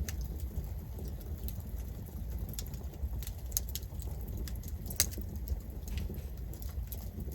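Campfire burning with a steady low rumble and irregular sharp crackles and pops of burning wood, the loudest pop about five seconds in.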